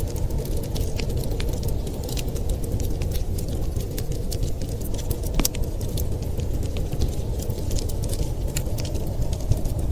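Wood fire crackling with many small irregular sharp pops, over a steady low rush of blizzard wind.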